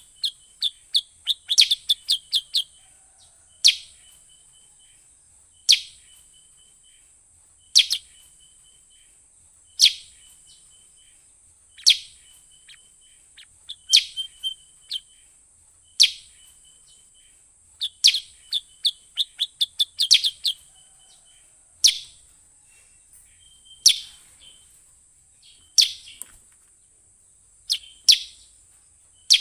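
Kutilang sutra bird calls played as a lure call: a sharp, falling chirp about every two seconds, with quick runs of several chirps at a few points and rows of short, dotted notes in between, over a steady high whine.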